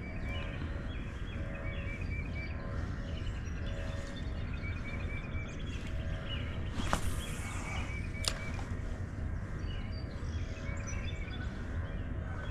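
Steady low outdoor rushing noise with small birds chirping in short repeated notes. About seven seconds in, a quick whoosh of a fishing rod being cast, then a sharp click about a second later.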